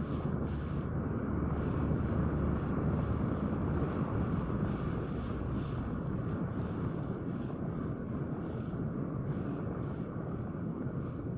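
Boat underway at sea: a steady rush of wind on the microphone and water, with a low, even engine hum underneath.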